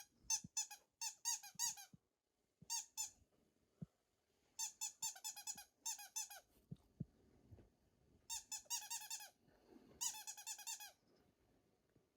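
Shiba Inu whining: five runs of short, high-pitched cries that bend up and down, with pauses between them. This is the anxious whining of an uneasy dog.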